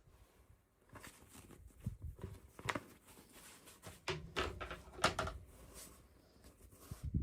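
Toy packaging and small plastic pieces handled by hand: irregular clicks and light knocks with soft rustling, the sharpest clicks about two, three, four and five seconds in.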